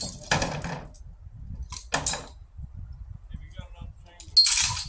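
Short bursts of voices, then a brief, loud, hissing or shrieking burst near the end.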